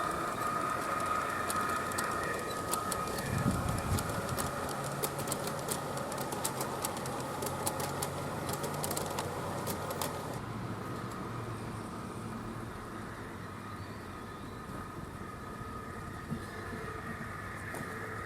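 A G-scale model train running on a garden railway track: a steady running hum, with a dense run of sharp clicks for several seconds in the middle that stops abruptly about ten seconds in.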